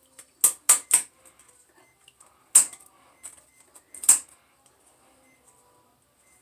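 Scissors snipping through a blue-and-gold macaw's wing flight feathers during a wing clip: three quick snips about half a second in, then two single snips about a second and a half apart.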